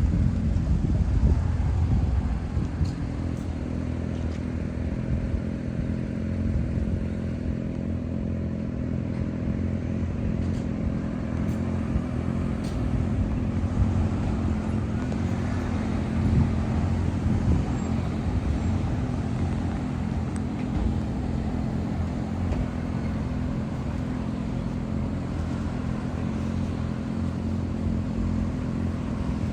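A motor vehicle engine running steadily: an even, low rumble that holds the same pitch throughout.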